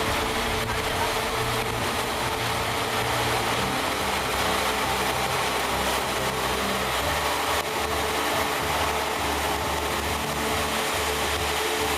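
A vehicle's engine running steadily, with a constant hum.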